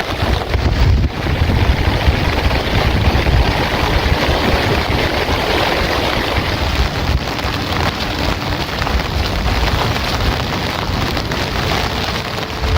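Heavy rain falling steadily as a dense, even hiss, with low rumbling wind noise on the microphone.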